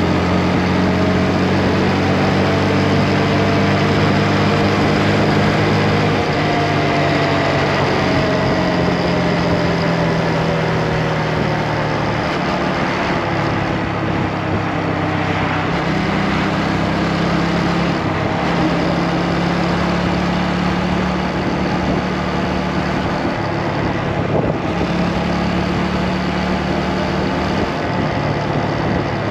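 Motorcycle engine running on the move, its pitch shifting a few times and sliding down slowly for several seconds as the speed changes, over a steady rushing noise.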